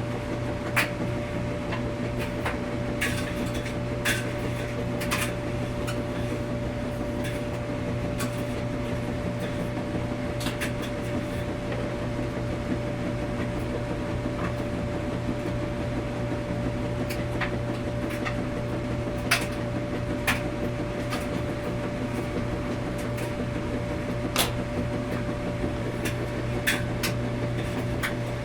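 Washing machine running with a steady low hum and a faint steady whine, with sharp irregular clicks and knocks every few seconds.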